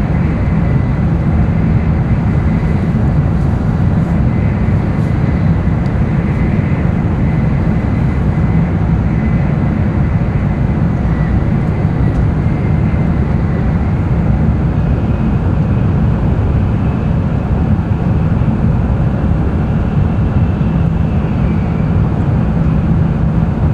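Running noise of an N700-series Tokaido Shinkansen train heard inside the passenger cabin: a steady deep rumble with a faint high whine on top.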